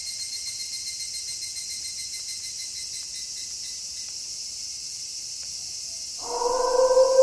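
Steady chorus of crickets, a continuous high trill. About six seconds in, a wolf starts a long, level howl that swells in loudness.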